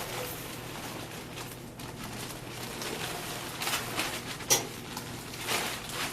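Handling noise from adjusting a corona-style grain mill: scattered rustles and light knocks, with one sharp click about four and a half seconds in.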